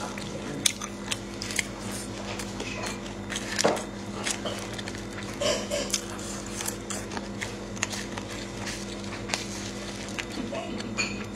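Crunchy chewing of walnut kernels and sesame seeds, with a spoon clicking and scraping in a small container, as many short irregular clicks. A steady low hum runs underneath.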